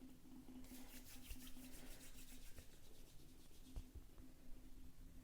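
Faint soft rubbing as dough is rolled and shaped between the hands into kurkure sticks, over a faint steady hum.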